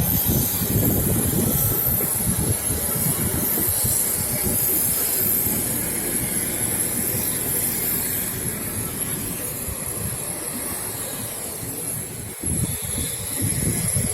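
Aircraft engine running steadily on an airport apron: a high, steady whine over a fluctuating low rumble.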